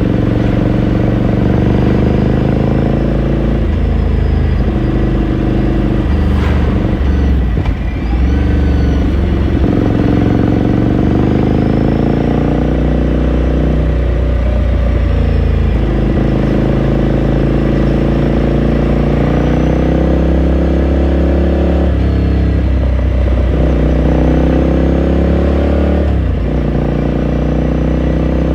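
2018 Ducati Scrambler Sixty2's air-cooled L-twin exhaust heard from onboard while riding. The engine note climbs, then drops back several times as the bike pulls through the gears.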